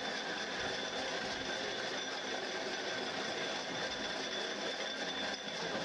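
Homemade firewood splitting machine running steadily: a dense mechanical noise with a thin, steady high whine.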